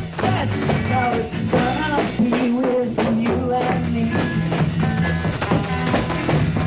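A raw 1960s garage rock band playing: a drum kit keeping a steady beat under electric guitar and bass.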